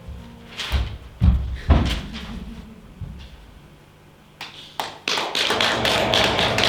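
Several loud separate knocks and thumps, then from about five seconds in a fast, dense tapping starts and keeps going.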